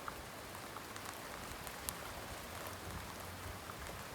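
Steady light rain falling, an even hiss with scattered individual drops ticking nearby.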